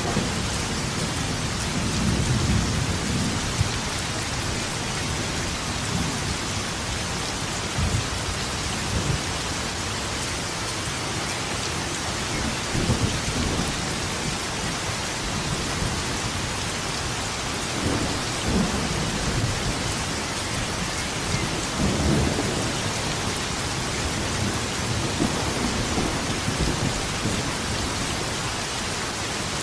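Steady heavy rain falling, with rumbles of thunder rolling in every few seconds, the strongest about two, thirteen, eighteen and twenty-two seconds in.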